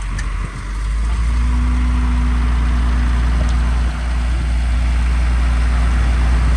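Heavy diesel engine of earthmoving equipment running close by: it gets louder over the first second, then holds a steady low drone, with a brief dip about four seconds in.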